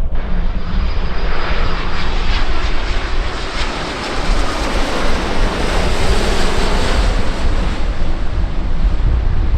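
Airliner passing by on takeoff or landing: its engines' noise swells and then eases off, with a thin high whine over the first couple of seconds. Wind rumbles on the microphone underneath.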